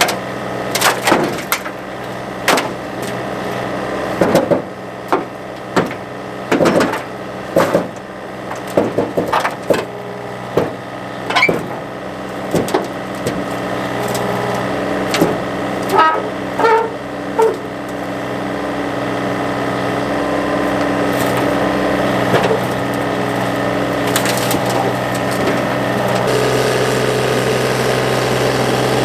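A machine engine running steadily under a series of sharp cracks and crunching impacts, most of them in the first half, like something being broken up.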